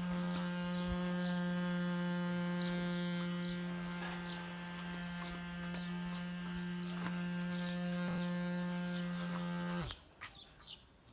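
A small electric motor humming steadily at one buzzy pitch, dropping slightly and cutting off suddenly near the end. Birds chirp faintly behind it.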